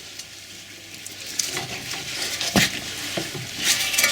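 Scraping and clattering handling noise, with one sharp metallic knock about two and a half seconds in and a few lighter clicks after it, as a MINI R50 driveshaft is pushed and worked back into place so that its circlip clicks in.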